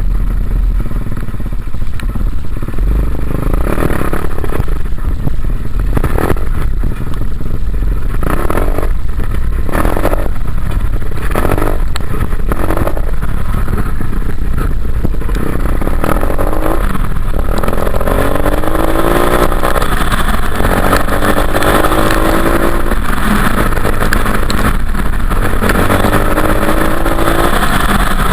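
Dirt bike engine running under way, revving and easing off, with its pitch climbing again and again through the second half as it accelerates. A heavy low rumble runs under it throughout.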